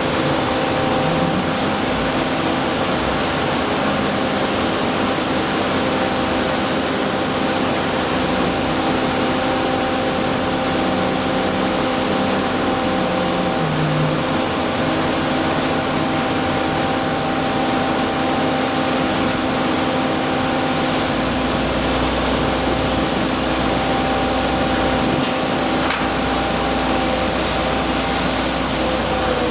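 Steady machinery noise with a constant pitched hum; a deeper rumble joins about two-thirds of the way through.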